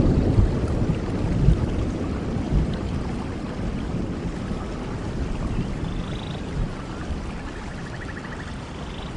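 Steady rain falling, with a low rumble of thunder that dies away over the first few seconds.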